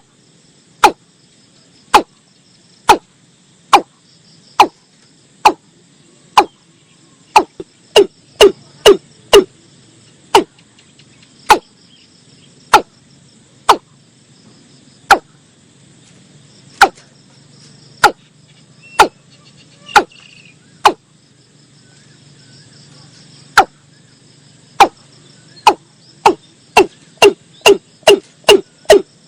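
Watercock calling: a series of short, hollow notes that drop quickly in pitch, about one a second, twice speeding up into a quick run of notes.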